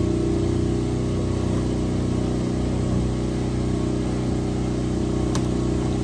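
A steady engine hum, like an idling motor, at an even level, with one faint click near the end.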